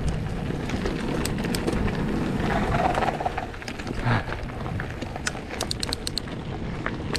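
Mountain bike riding over a rocky trail: a continuous rumble of tyres and wind on the helmet camera, with many sharp clicks and rattles from stones and the bike.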